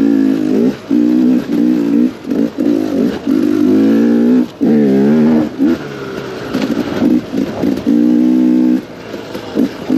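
KTM 250 XCW single-cylinder two-stroke enduro bike engine, ridden with the throttle blipped on and off: short bursts of revving that drop back between them, with the pitch sliding down and up near the middle.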